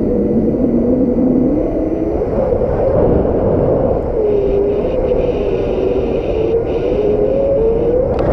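Strong gusty wind with a deep, steady rumble and a howling tone that wavers slowly up and down in pitch.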